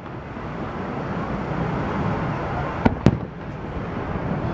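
Aerial fireworks shells bursting: two sharp bangs close together about three seconds in, over steady background noise.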